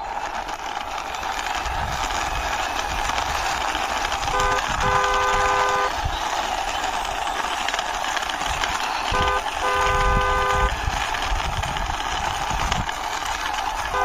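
Car horn sound effect honking twice, each time a short toot followed by a longer one, about four and a half seconds in and again about nine seconds in, over a steady rushing noise.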